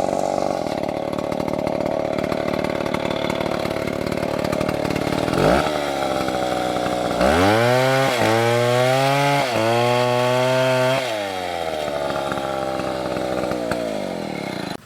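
STIHL chainsaw engine running at a steady lower speed, then revved up to high speed about seven seconds in and held there for about four seconds with two brief dips, before dropping back to a lower steady speed.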